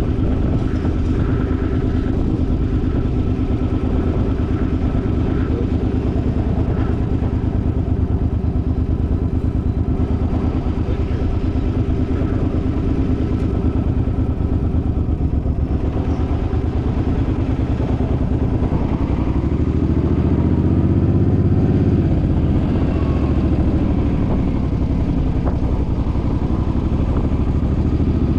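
The Suzuki's engine running steadily, its pitch rising about twenty seconds in and then easing off again as it speeds up.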